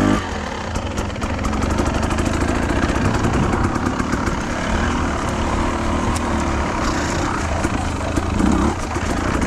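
Enduro motorcycle engine running at low revs after a rev drops off at the start, with many irregular sharp ticks and clicks over it.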